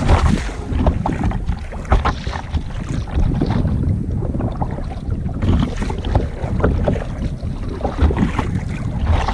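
Wind buffeting the microphone in a dense low rumble, over water splashing and sloshing around a kayak at sea.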